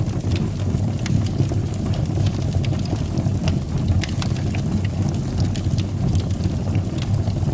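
Wood fire burning in a fireplace: a steady low rumble of flames with scattered crackles and pops, several a second.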